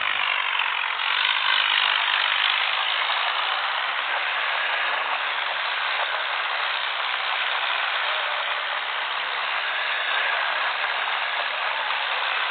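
Tractor diesel engines running steadily, heard as a harsh, even mechanical noise that holds without a break.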